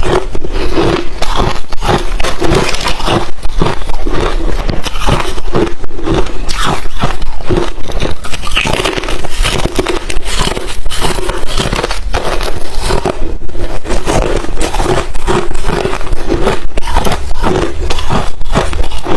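Crushed, refrozen ice chips being bitten and chewed close to the microphone: dense crackly crunches, several a second, with no break.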